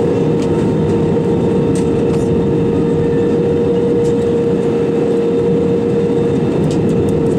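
Cabin noise of an Airbus A320-200 in flight, heard inside the cabin: the steady roar of the jet engines and rushing air, with a steady hum running underneath.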